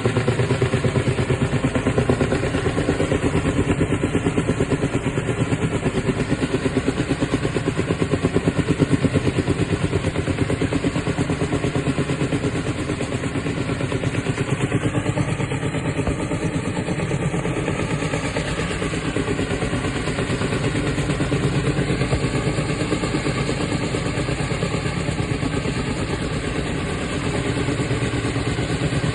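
Helicopter running steadily, its rotor blades beating in a fast, even rhythm over the turbine's sound.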